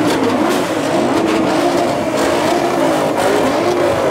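Supercar engine revving in quick repeated blips, its pitch rising and falling about twice a second.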